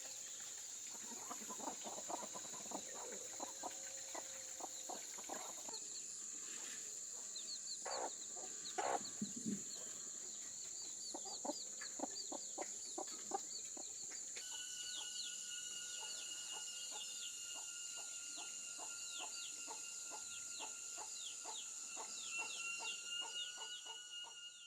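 Chickens clucking, with many short, high, falling peeps like chicks, over a steady high-pitched hum. About two-thirds of the way in, two further steady tones join the hum.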